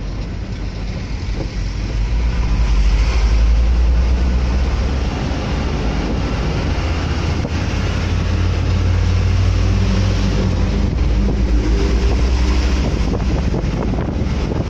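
Wind buffeting the microphone over a deep, steady vehicle rumble while moving along a road. The rumble swells from about two seconds in.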